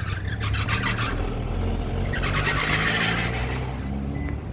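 Street traffic: a steady low engine hum, with two spells of hiss, the first right at the start and a longer one about two seconds in.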